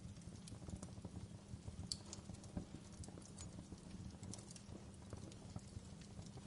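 Fireplace fire crackling: scattered sharp pops and snaps over a low steady rumble.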